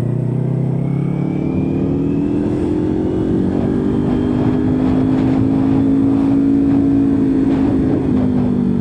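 Kawasaki Ninja 400's parallel-twin engine on the move, its pitch rising over the first few seconds as it accelerates, then holding steady and easing off slightly near the end.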